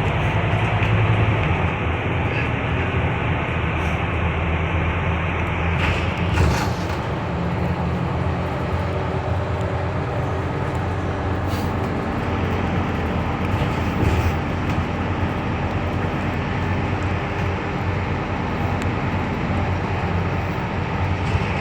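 Inside the cabin of a Scania K320UB bus on the move: steady diesel engine drone with road and body noise, and a few brief rattles or clunks.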